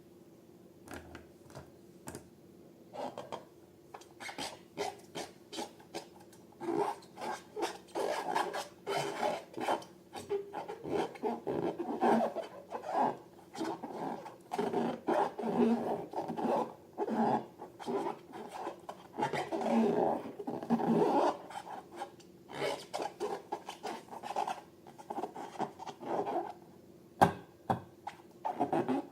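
Handling of slime-making materials: a quick, irregular run of short rubbing and scraping strokes, sparse at first, thickest through the middle, then thinning out.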